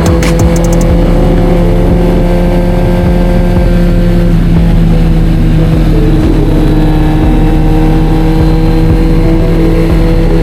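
Kawasaki Z900's inline-four engine running at a steady cruising speed, its note holding almost constant pitch.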